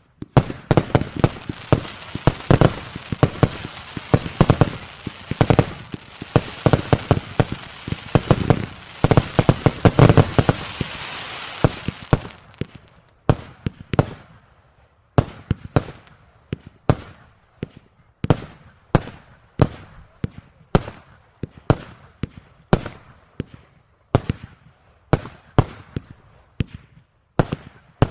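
Fireworks going off. For about twelve seconds there is dense crackling with many bangs; then it turns into a steady run of separate sharp bangs, about two a second.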